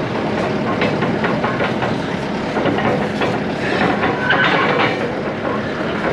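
Heavy machinery running steadily, with many rattling metal clanks and knocks and a brief squeal about four seconds in.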